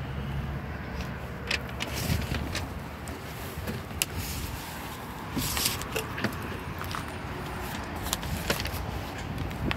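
Scattered knocks and clicks from handling and moving about, over a steady low rumble.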